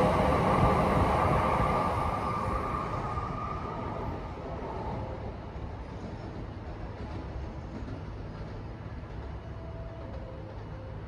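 Coupled E5 and E6 series Shinkansen train pulling away from the platform. Its running noise fades over the first few seconds and leaves a steady low rumble.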